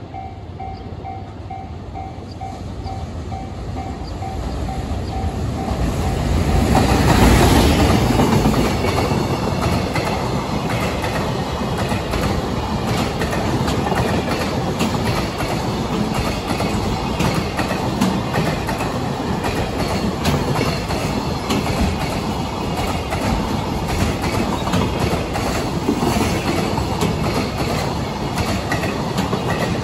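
A level-crossing warning bell dings steadily. About seven seconds in, an EF510 electric locomotive passes and the sound swells to its loudest and covers the bell. A long string of container wagons follows, wheels clacking over the rail joints with a continuous rattle.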